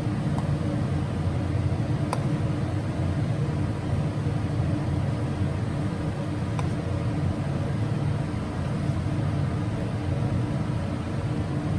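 Steady low mechanical hum and rumble from a running machine, with a few faint clicks.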